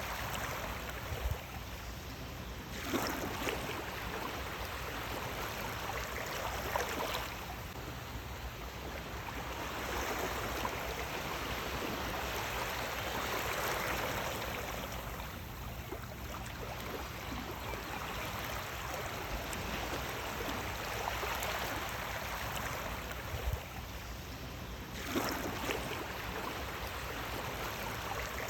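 Sea waves washing onto the shore, a continuous rush of water that swells into louder washes every few seconds and eases back between them.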